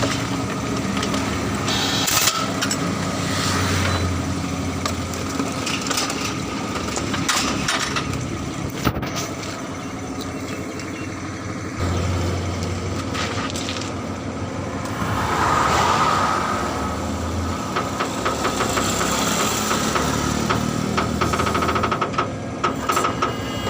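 Truck diesel engine running steadily, swelling a little in places, with scattered clicks and knocks over it.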